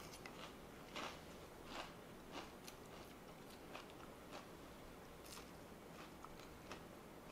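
Close, quiet chewing of crisp fried food, a string of soft, irregular crunches, the strongest about a second and nearly two seconds in.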